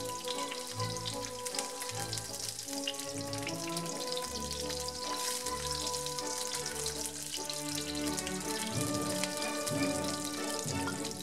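Chopped red onion, garlic and green chili sizzling with a fine crackle in hot oil in a frying pan, under background music.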